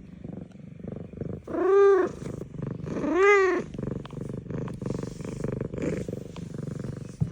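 F2 Savannah cat purring steadily, with two meows in the first half about a second and a half apart, each rising and then falling in pitch.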